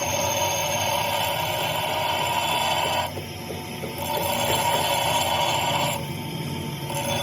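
A thick drill bit being sharpened against a motor-driven grinding wheel: a steady grinding sound for about three seconds, a pause of about a second, grinding again for about two seconds, and a short pass near the end.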